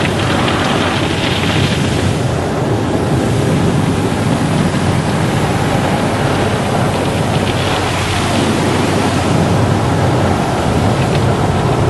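Car wash running: a steady rush of spraying water over a low machine hum, swelling slightly a second in and again about eight seconds in.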